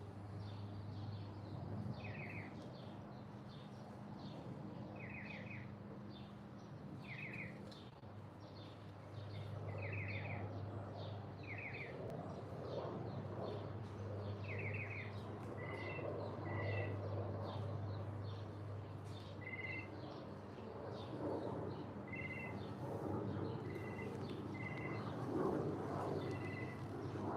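A small bird chirping in a garden: short trills of three or four quick notes repeated about every two seconds, changing about halfway to single and double short chirps. A steady low hum and a faint rumbling background lie underneath.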